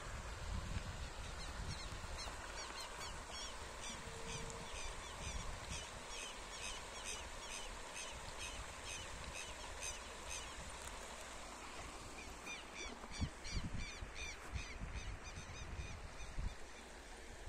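A bird calling in a long series of short, high notes, about two a second; the calls stop about ten seconds in and start again a couple of seconds later. Under them runs a low rumble with a few dull thumps.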